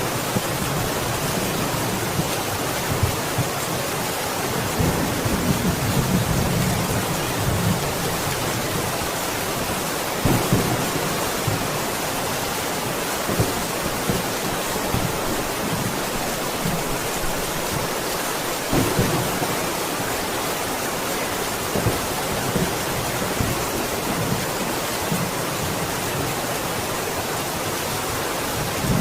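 Steady, dense rain falling, with low rumbling swells every few seconds.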